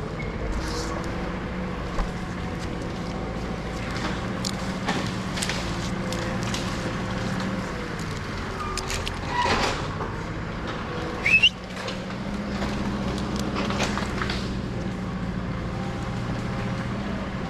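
An engine running steadily at a low, even speed, with scattered knocks and clicks and a short, sharp rising squeak a little past the middle.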